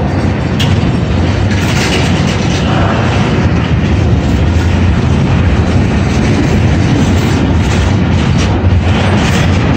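Freight train cars rolling past over the rails at a grade crossing, a steady loud noise of wheels on track.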